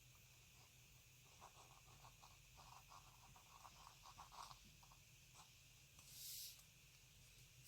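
Fountain pen nib scratching faintly across paper in quick short strokes as it writes. About six seconds in there is a brief, louder rustle.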